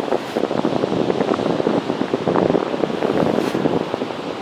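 Strong gusty wind buffeting the microphone: a dense, uneven rush that comes in irregular gusts.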